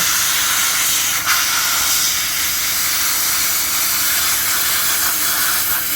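Compressed-air blow gun hissing steadily as it blasts water and grime off an engine, cutting off suddenly at the end.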